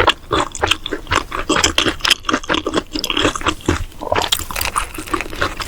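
Close-miked mukbang eating sounds: wet, smacking chewing of a Korean corn dog, a rapid irregular run of moist clicks and squelches.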